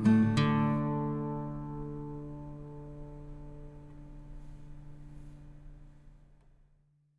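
Background music ending on a guitar chord: a last strum just after the start, then the chord rings on and fades slowly away to silence about six seconds in.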